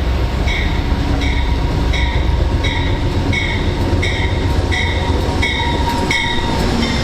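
A train rolling by with a low rumble, while a bell rings steadily at about three strokes every two seconds.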